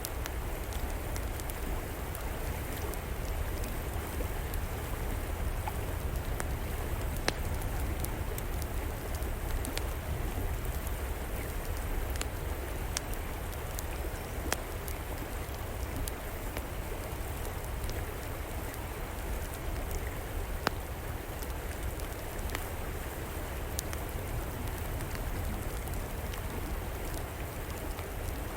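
River water flowing steadily, with a wood fire crackling over it in scattered sharp pops.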